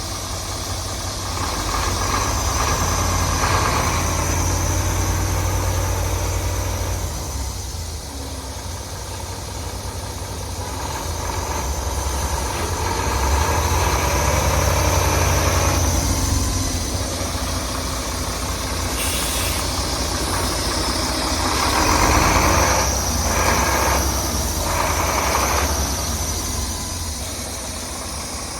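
The Mack 10.8-litre diesel engine of a 2013 Mack CXU613 road tractor idling steadily, growing louder and quieter in turns.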